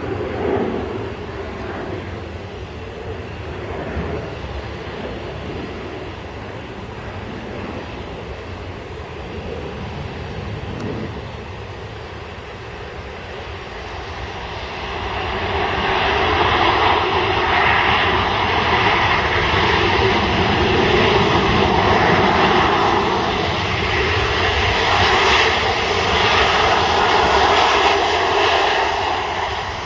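Jet engines of a Ryanair Boeing 737 on its landing approach. The engine noise is steady, then grows much louder about halfway through as the aircraft comes close, and stays loud.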